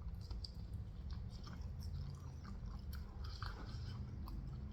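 A person chewing food close to the microphone: soft, wet mouth sounds with scattered small crunches.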